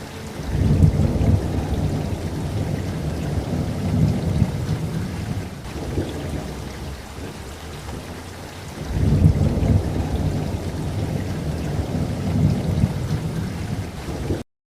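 Steady rain with two long rolls of thunder, the first starting about half a second in and the second about nine seconds in, each rumbling deep for several seconds. The sound cuts off to dead silence just before the end.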